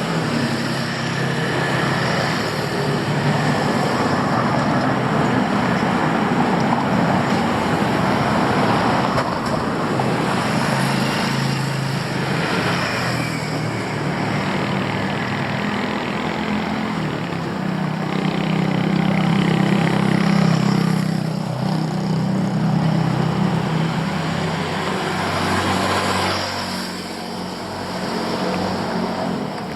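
Motor engines running close by, with a steady low hum that grows stronger past the middle, over the continuous hiss of traffic.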